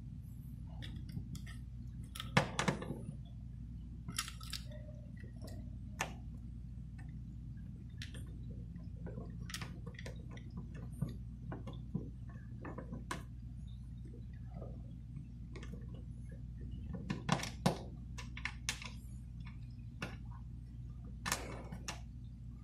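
Scattered small clicks and knocks of tools and parts being handled while working on a car's door-jamb light switch, the loudest in short clusters about two and a half seconds in, around seventeen seconds, and near the end, over a steady low hum.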